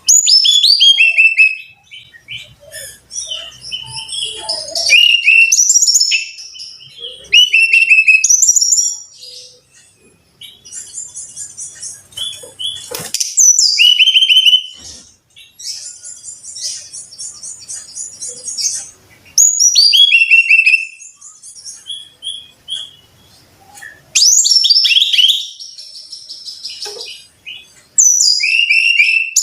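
Brown-chested jungle flycatcher singing: loud phrases every few seconds, each a quick run of whistled notes falling in pitch, with softer, rapid high trilled chatter in between.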